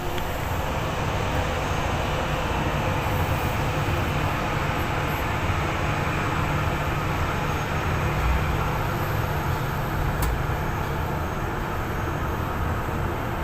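Steady low rumble of aircraft engines running, with an even rushing noise on top and no change in pitch.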